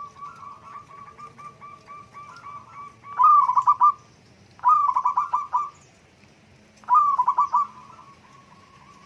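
Zebra dove (perkutut) cooing: a soft, fast run of repeated notes, then three loud bursts of quick trilled coos about a second each, near three, five and seven seconds in. Softer notes follow near the end.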